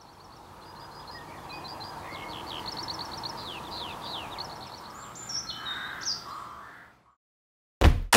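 Songbirds chirping and trilling over a soft outdoor hiss, fading out near the end. Loud, heavy thuds start just before the end.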